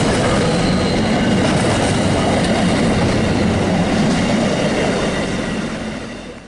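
Train running on rails: a steady rumble of wheels and cars with faint high tones above it, fading out near the end.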